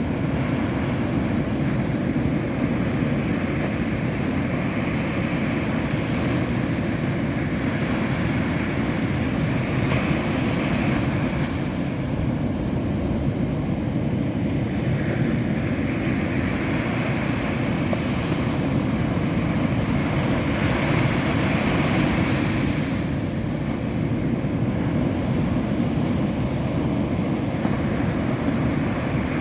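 Ocean surf breaking on a beach, a steady wash of noise that swells every few seconds as waves come in, over a constant deep rumble.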